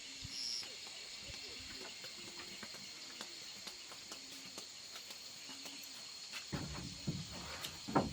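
Insects chirring in one steady high drone, with faint short low calls now and then; about six and a half seconds in, a few knocks and rustles start.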